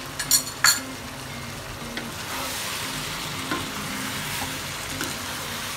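Mutton and masala frying in a nonstick wok, sizzling as a wooden spatula stirs through them. Salt and red chilli powder have just been added. Two sharp clacks sound about half a second in, and the sizzling hiss fills out from about two seconds in.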